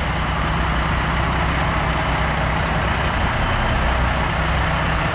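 A semi truck's diesel engine running steadily at idle, a constant low engine note under a wash of noise.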